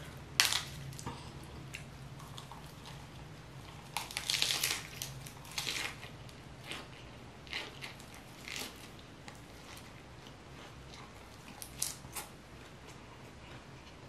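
Close-miked biting and chewing of a lettuce wrap filled with grilled steak and spicy fire noodles. Crisp crunches are loudest from about four to six seconds in, then give way to softer, spaced-out chewing.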